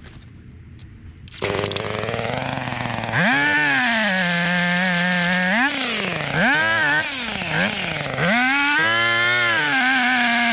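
Chainsaw engine that comes in suddenly about a second and a half in, then revs up and down several times, its pitch rising and falling.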